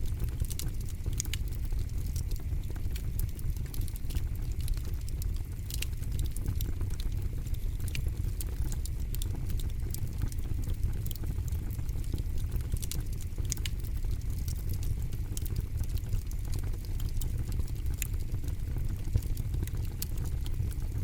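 Campfire burning with a steady low rumble of flame and frequent sharp crackles and pops of burning wood scattered throughout.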